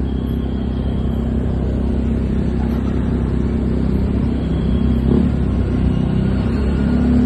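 Steady low engine rumble, the pitch wavering slightly without any clear rev.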